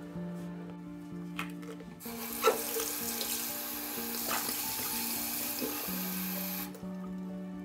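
Water running from a tap into a sink, turned on about two seconds in and off shortly before the end, with a sharp knock soon after it starts.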